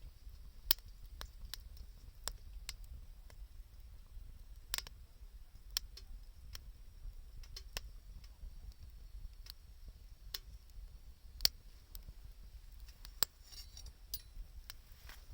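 Wood fire crackling: sharp pops at irregular intervals, roughly one a second, a few louder than the rest, over a steady low rumble.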